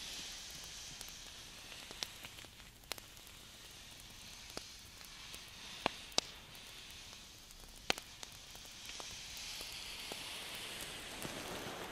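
Hand sounds close to a sensitive microphone: a soft rustling hiss of skin brushing and rubbing that swells and fades, with a few sharp clicks scattered through it.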